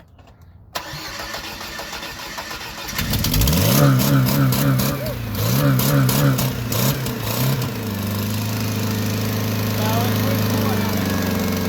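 Chevy S-10 engine being started: it turns over from under a second in, catches about three seconds in, is revved up and down several times, then settles into a steady idle near the eight-second mark.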